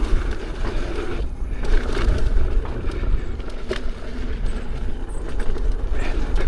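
Wind buffeting the microphone and an electric unicycle's tyre rumbling over a dirt trail while riding, with a few sharp knocks from bumps.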